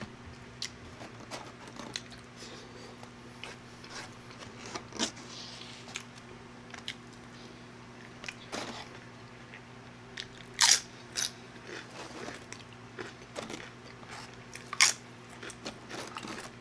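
A person chewing and eating close to the microphone, with wet mouth sounds and scattered sharp crunches or clicks, the loudest about eleven and fifteen seconds in. A faint steady hum sits underneath.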